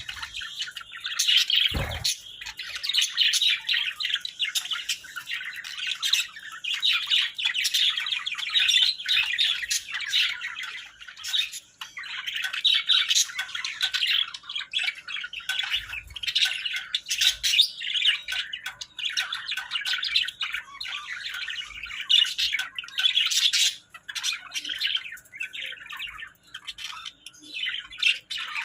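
Small birds chirping continuously, a dense run of quick, high chirps and squawks with brief gaps, and a short low thud about two seconds in.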